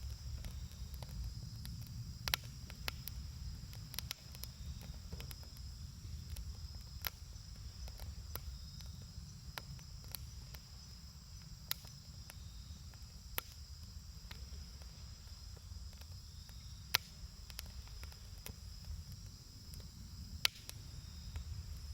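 Wood campfire crackling, with sharp pops at irregular intervals, the loudest a few seconds in and again near the end, over a low rumble. A steady high chirring of crickets runs underneath.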